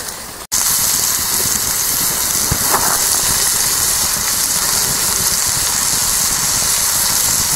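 Pork, red onion and red peppers sizzling steadily in a pan over an open wood fire, heard close up; the sizzle starts suddenly about half a second in.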